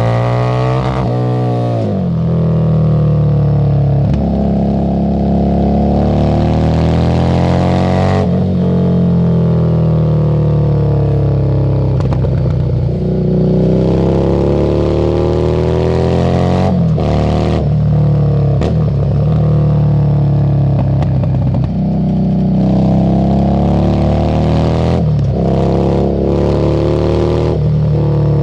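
Harley-Davidson Street 750's liquid-cooled 749 cc V-twin running through a Screamin' Eagle exhaust while riding. The pitch rises under throttle and drops at each gear change or roll-off, several times over.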